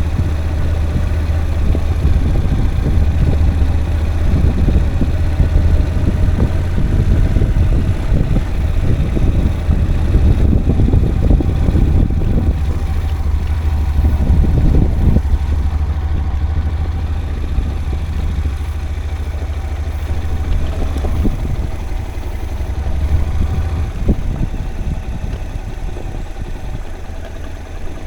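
A vehicle engine running steadily with a low rumble, a little quieter in the second half.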